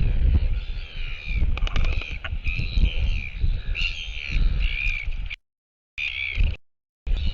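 Birds calling over and over in short curved cries, over heavy wind buffeting the microphone. The sound cuts out completely twice, briefly, in the second half.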